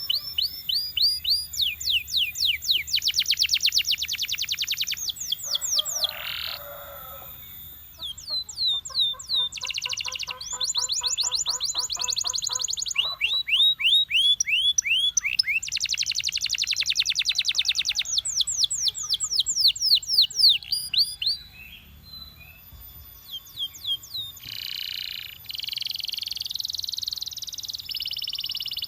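A male Belgian canary singing: fast trills of rapidly repeated notes, changing from one tour to the next, with a lower, rolling pulsed trill partway through and brief pauses between phrases.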